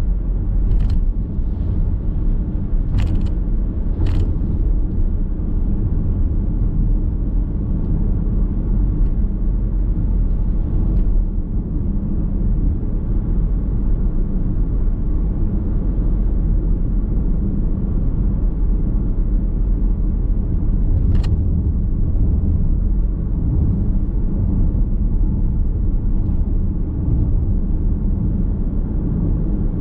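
Steady road noise of a car being driven, heard from inside the cabin: a continuous low rumble of tyres and drivetrain, with a few sharp clicks, most near the start and one about 21 seconds in.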